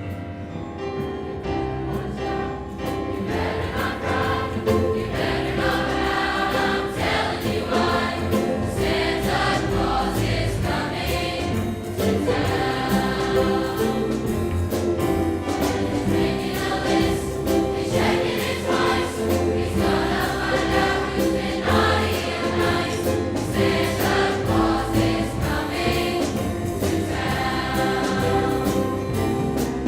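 Large high school choir singing a Christmas song with many voices together, swelling over the first few seconds and then holding steady.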